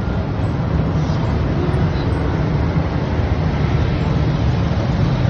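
Steady low rumbling outdoor noise.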